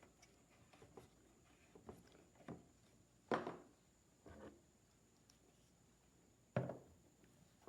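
Scattered light knocks and clicks in a small room, with two louder thuds, one about three seconds in and one near the end.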